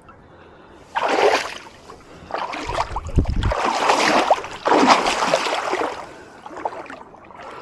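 Lake water splashing and sloshing in several bursts of about a second each.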